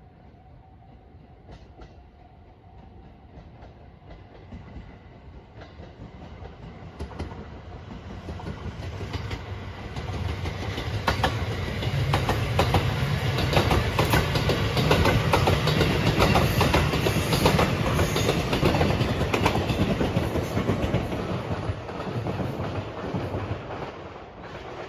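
Rapid Marine Liner electric train approaching and passing, its wheels clacking over rail joints in quick succession. The sound builds over the first ten seconds and fades near the end.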